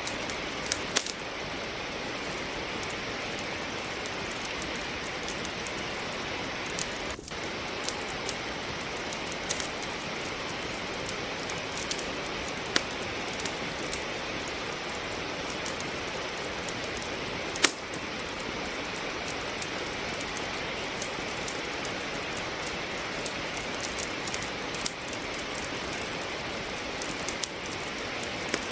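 Steady rain falling, with a wood fire crackling over it: irregular sharp pops, a few every several seconds, one louder pop about two-thirds of the way through.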